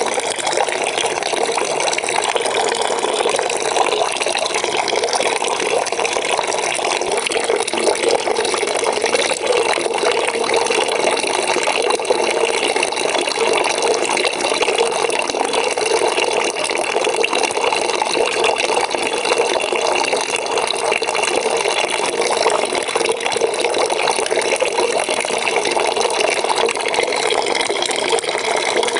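Water running steadily from a tap into a bucket, an even splashing rush as the bucket fills.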